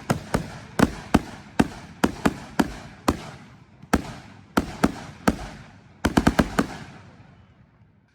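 Consumer fireworks going off in a string of sharp, echoing bangs, about three a second. There is a short break about three seconds in and a quick volley about six seconds in, then the bangs die away near the end.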